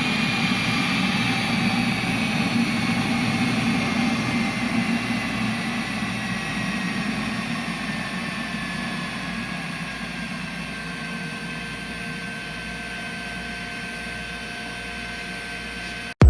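Eberspächer Hydronic D5WZ diesel coolant heater running, its combustion-air blower whining over a steady rush. The whine slowly falls in pitch and the whole sound grows gradually quieter as the blower slows.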